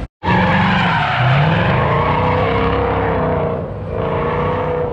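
Car engine revving hard with tyres squealing, starting abruptly after a brief gap; the pitch rises and falls.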